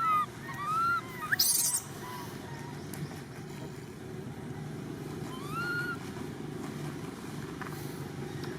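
A young monkey giving short, high-pitched, arching squeals, several in the first two seconds and one more about six seconds in, over a steady low hum.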